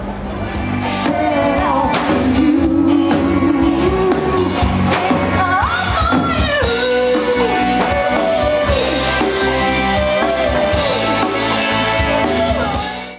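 Rock-style band music with a lead singer, guitar and drum kit, getting louder about a second in and cutting off sharply at the end.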